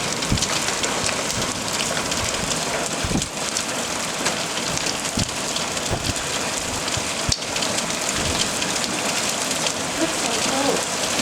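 Steady rain falling and pattering on surfaces close by, with scattered individual drops clicking and a few dull thuds.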